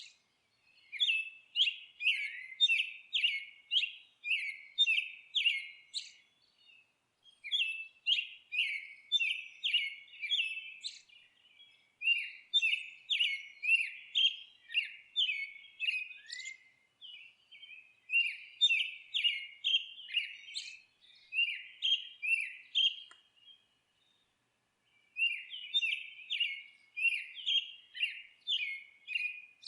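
Small songbird chirping: runs of short, sharp, down-slurred chirps at about two a second, broken by brief pauses.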